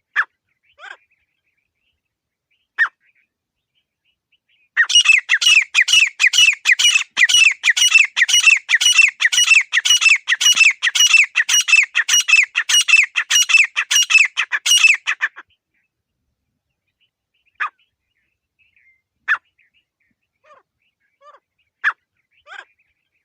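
Grey francolin (desi teetar) calling: a few short single notes, then about ten seconds of loud, fast, repeated calling that stops abruptly, followed by more single notes.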